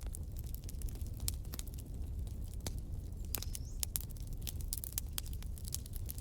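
Wood fire crackling, with irregular sharp pops and snaps over a steady low rumble. A brief high whistle comes about halfway through.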